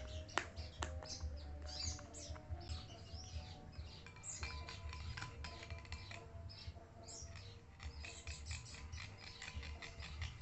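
Small birds chirping and twittering rapidly and continuously, with short high falling notes and scattered sharp clicks over a steady low hum.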